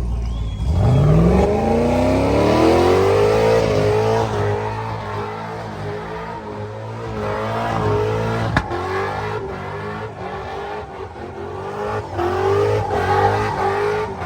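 Truck engine revving hard: the pitch climbs steeply about a second in, then is held high, rising and falling as the throttle is worked. A single sharp click sounds about halfway through.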